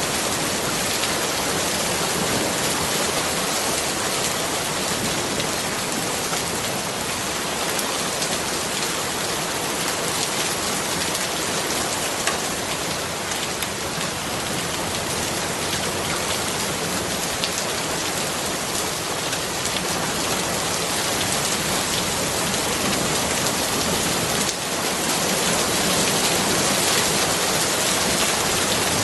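Steady rain falling: an even hiss of countless drops that gets a little louder near the end.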